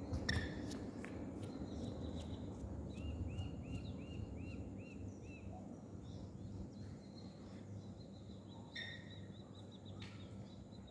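Bird song over a low steady outdoor rumble: a quick run of about eight repeated arched notes a few seconds in, with other chirps and trills around it and a few sharp knocks in the first second or so.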